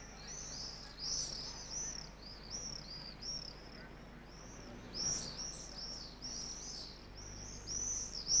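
Small birds chirping: a steady run of short, high chirps, several a second, over a faint steady low hum.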